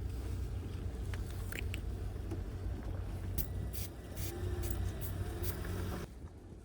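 Steady low rumble with several sharp clicks in the middle, cutting off abruptly near the end.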